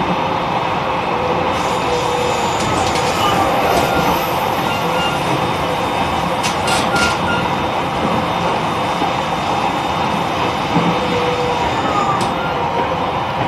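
E129 series electric train's steady running sound from inside the car: wheels rumbling on the rails with faint whining tones from the traction motor drive, and a short cluster of clicks about six and a half seconds in.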